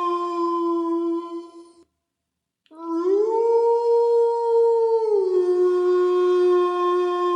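Wolf howling: one long, steady howl fades out a couple of seconds in. After a short silence a new howl starts, rises a little in pitch, holds, then drops back and holds steady.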